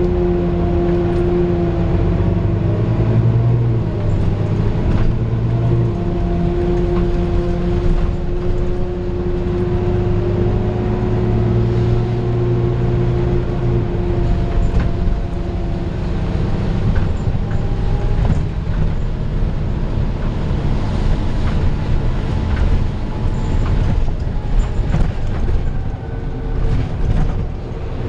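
Volvo B9TL bus engine running under way, heard from inside the bus, with a steady whine from the engine cooling fan (the 'hoover') that fades about halfway through, leaving engine and road noise.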